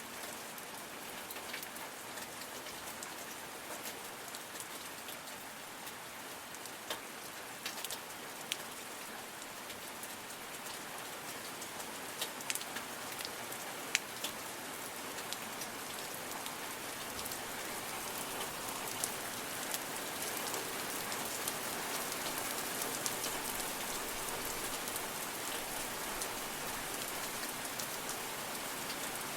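Steady rain falling, with scattered single drops striking close by as sharp clicks; the rain grows slightly heavier past the middle.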